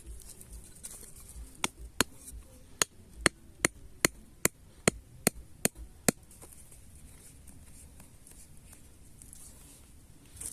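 About a dozen sharp chopping strikes of a blade into wood, evenly paced at a little over two a second, stopping about six seconds in.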